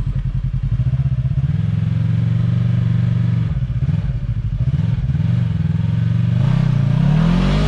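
Side-by-side UTV engine running under load, its pitch shifting as the throttle is worked, then revving up and dropping back near the end.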